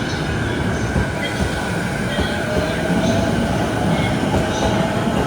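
Electric commuter train running on the rails: a steady, loud rumble of wheels and running gear with a faint whine over it.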